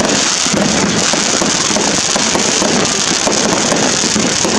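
Fireworks crackling and fizzing steadily, a dense run of small cracks over a continuous rushing noise.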